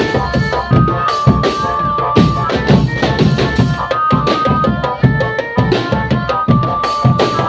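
Indonesian marching drum band playing: a fast, steady beat of snare and bass drums with a melody of held high notes over it.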